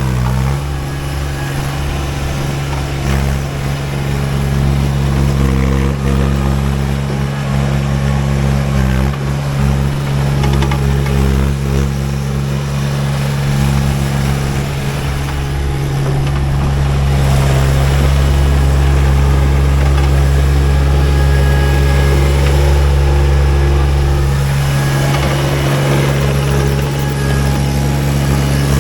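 Baumalight TRL620D mini skid steer's diesel engine running steadily, growing louder about halfway through and holding there.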